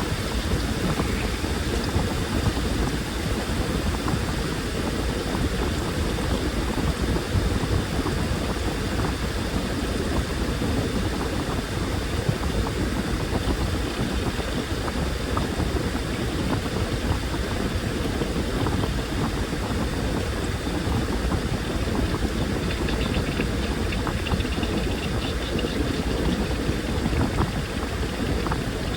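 Washing machine running mid-cycle: a steady churning of the turning drum with water sloshing. There are no clear starts or stops.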